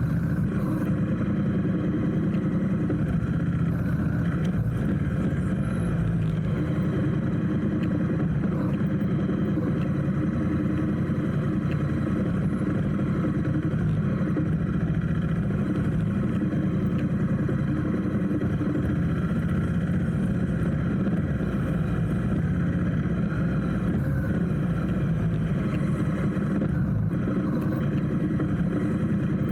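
Motorcycle engine running steadily with little change in pitch or loudness, heard from the bike itself in traffic.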